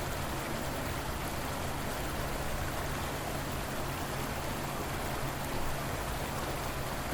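Steady rush of flowing river water, an even unbroken wash of noise.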